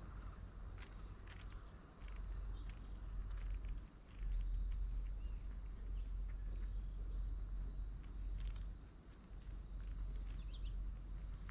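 Steady high-pitched chorus of crickets, with a few faint short chirps or ticks and a low rumble underneath.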